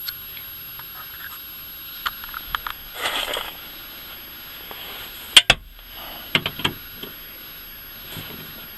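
Metal clinks and knocks as the anti-squeak plate is unbolted and taken off the UAZ Patriot's rear suspension, with a short rasp about three seconds in and one sharp metallic click, the loudest, a little after five seconds.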